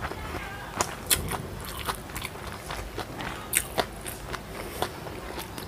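Close-miked chewing of a forkful of instant noodles: irregular sharp mouth clicks and smacks.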